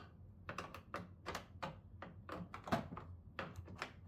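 A run of light, irregular clicks and taps, about a dozen, from hands working at the plastic case of an old television while its screws are being taken out.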